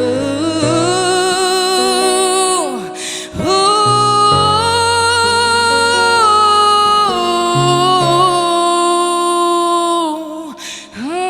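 A young girl singing long held notes without words, with vibrato, over a backing track with a bass line. There is a short break about three seconds in, then one long note that steps down in pitch near the middle.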